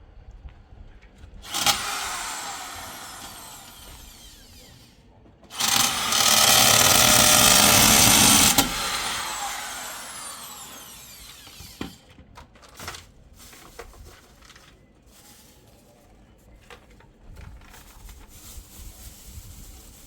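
An electric motor is switched on twice. First comes a brief burst about a second and a half in that winds down over a few seconds. Then it runs steadily for about three seconds, is switched off and spins down, followed by a few light knocks and clicks.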